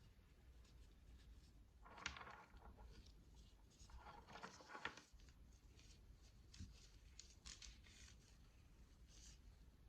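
Faint handling sounds of gloved hands working on prayer beads: soft rustling about two seconds in and again around four to five seconds, with scattered small clicks between.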